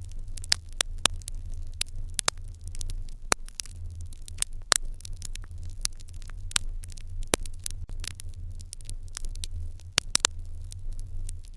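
Fire in an irori hearth crackling, with many irregular sharp pops and snaps, several a second, over a steady low rumble.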